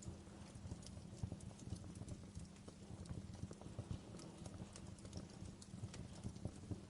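Wood fire in a fireplace crackling: irregular sharp pops and snaps over a low rumble of the flames.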